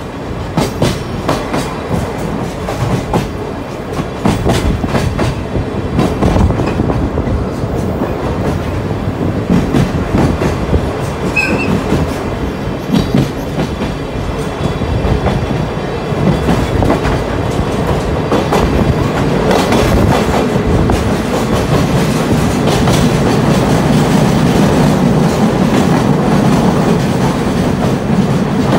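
Sagano Scenic Railway trolley train running, heard from its open-sided car, the TR209 bogie wheels clacking over rail joints. In the last several seconds the running noise grows louder and steadier as the train runs into a tunnel.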